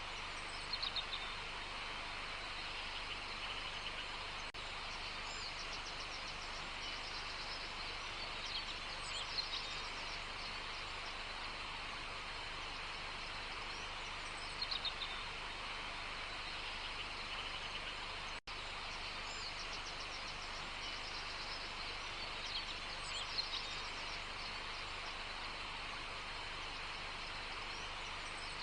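Wild birds singing short phrases every few seconds over a steady outdoor background hiss of nature ambience. The sound cuts out for an instant about two-thirds of the way through.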